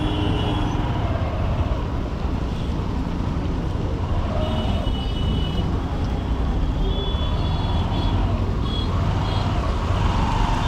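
Honda SP125 single-cylinder commuter motorcycle running steadily in dense city traffic, its low engine hum mixed with road and wind noise. Short high-pitched beeps sound around halfway and again at about seven seconds.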